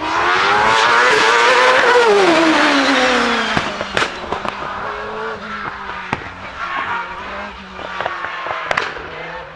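Hillclimb race car accelerating hard past at full throttle, its engine pitch climbing and then dropping steeply as it goes by. A series of sharp cracks follows while the engine fades up the course.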